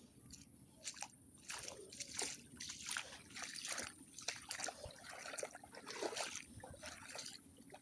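Footsteps wading through shallow floodwater and mud, a splash and slosh at each step, coming roughly every half second.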